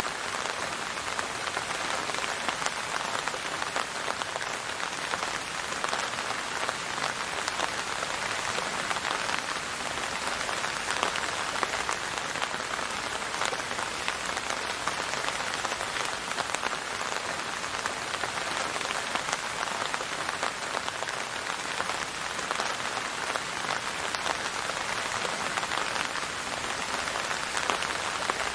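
Steady rain falling on a surface, a dense even patter of countless small drops.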